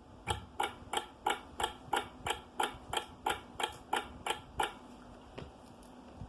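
Clock ticking steadily, about three ticks a second, with the ticks stopping a little before the end.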